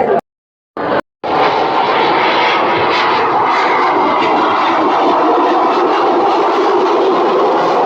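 Aircraft engine noise, loud and steady. It is broken twice by abrupt cuts to dead silence in the first second or so.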